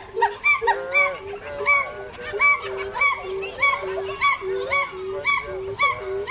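A flock of birds calling over one another, many short repeated calls at two or more pitches, several a second.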